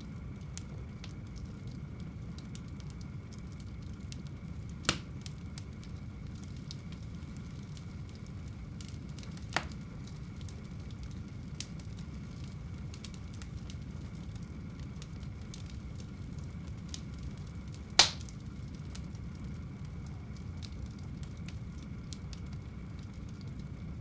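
Wood fire burning in a home fireplace: a steady low rush of flames with a scatter of small crackles and three sharp pops from the burning logs, about five seconds in, near ten seconds, and the loudest about eighteen seconds in.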